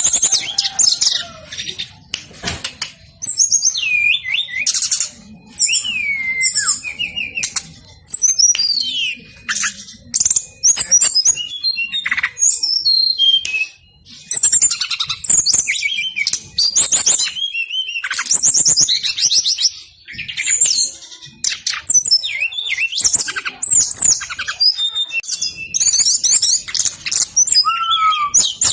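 Brown-chested jungle flycatcher singing insistently: a fast, almost unbroken run of high, varied whistles, slurred notes and trills, with only brief pauses.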